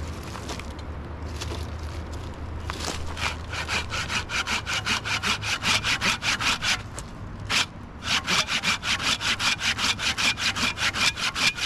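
Handsaw cutting through firewood in quick, even back-and-forth strokes. The sawing comes in two runs with a short pause a little past halfway.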